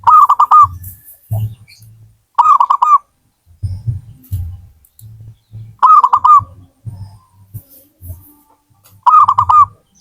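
Zebra dove (perkutut) cooing: four phrases, each a quick run of three or four bouncing notes, about three seconds apart. A faint low rumbling comes and goes between the phrases.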